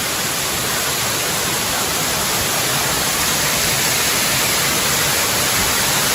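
Rani Duduma waterfall: water falling over rock in a steady, unbroken rushing hiss.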